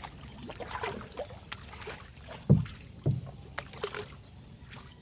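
Kayak paddles dipping and splashing in river water in irregular strokes, with two low knocks about halfway through.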